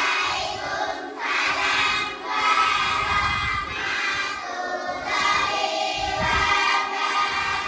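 A class of children chanting in unison in a drawn-out, sing-song way, phrase after phrase: the chorused reply to the teacher's Islamic greeting.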